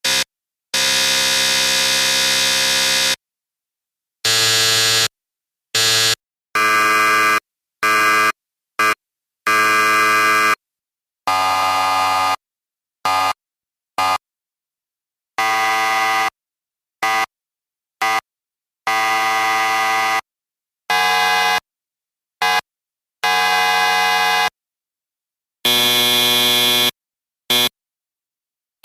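A series of electric buzzers sounding one after another, each a harsh steady buzz that starts and stops abruptly with silence between. The buzzes differ in length, from quick blips to a long one of about two and a half seconds, and in pitch and tone.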